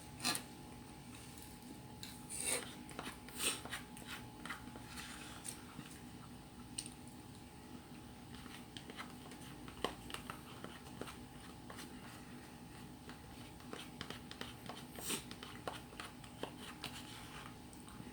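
Close-up eating sounds: scattered small clicks and scrapes of a utensil against a bowl, mixed with chewing, with a few louder knocks. A faint steady hum runs underneath.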